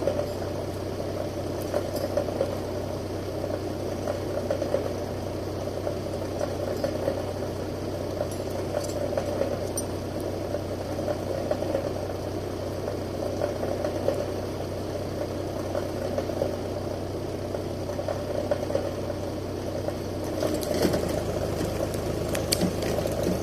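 Steyr 540 tractor engine running steadily, with its low hum shifting a few seconds before the end.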